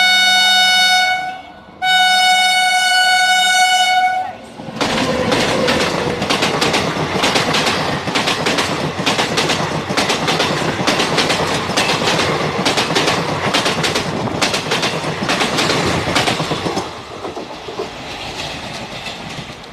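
Indian Railways train horn sounding two blasts in quick succession, then the train running past with a dense, rapid clatter of wheels over the track crossover, which eases off near the end.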